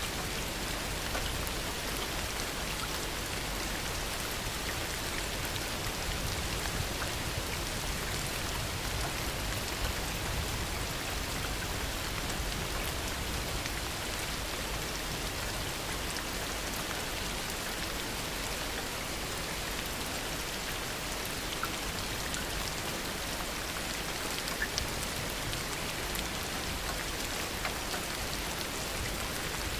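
Heavy rain falling steadily, a dense even hiss with scattered individual drops pattering close by. No thunder is heard.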